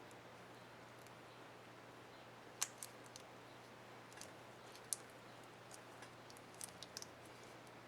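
Scattered small, sharp plastic clicks from a laptop keycap and its retainer clip being worked on the keyboard, over a faint steady hum. The two loudest clicks come about two and a half seconds in and near five seconds, with a quick run of lighter ones near the end.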